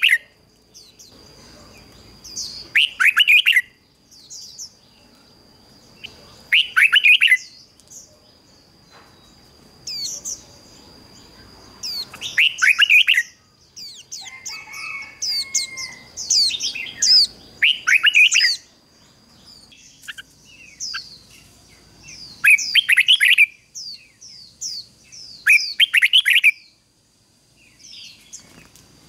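Red-whiskered bulbul singing: loud, quick bursts of warbling song phrases that come every few seconds, with quieter chirps between them. A steady high thin tone runs underneath.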